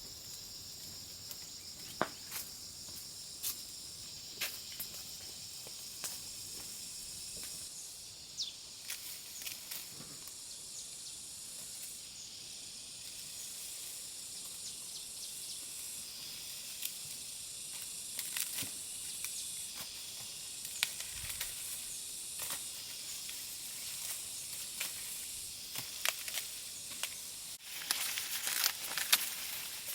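A steady high-pitched outdoor hiss with scattered sharp clicks and light taps. Denser, louder crackling starts near the end.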